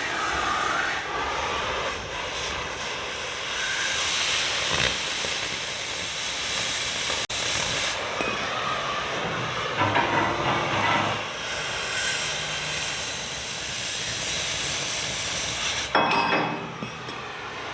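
Loud, steady hissing rush of air carbon-arc gouging cutting into the steel of a bulldozer blade, with a brief dropout about seven seconds in.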